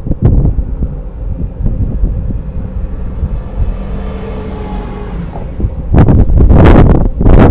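Strong wind buffeting the microphone, a rumbling, gusty roar that gets louder about six seconds in.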